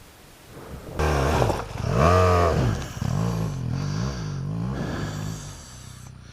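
Motorcycle engine revving, starting loud about a second in. It climbs and drops in pitch, then revs up and down several times before fading near the end.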